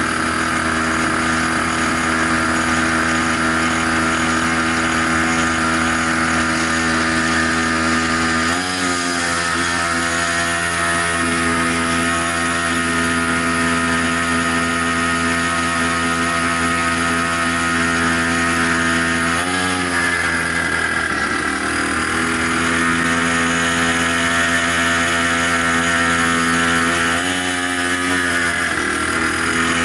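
Small 50cc two-stroke engine on a drift trike running at wide-open throttle, a steady high buzz. Its pitch wavers briefly about three times.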